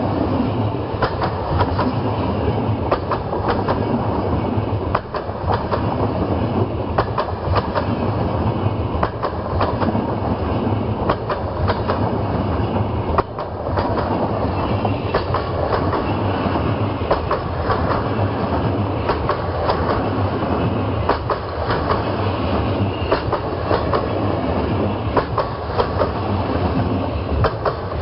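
Passenger train coaches passing close, their wheels clacking over the rail joints in quick runs of knocks over a steady low rumble.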